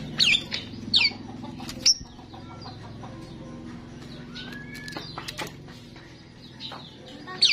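Starling calling: sharp, loud downward-sweeping whistles, three in the first two seconds and another near the end, with clicks and softer chirps and chatter between.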